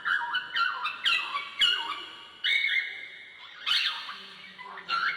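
Cockatiel chirping: a quick run of short whistled notes that slide up and down, with a longer, harsher call a little before the end.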